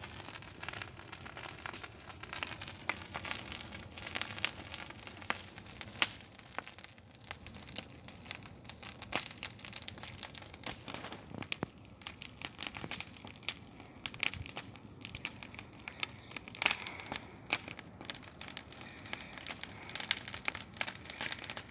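Bonfire of branches and leaves crackling, with irregular sharp pops and snaps.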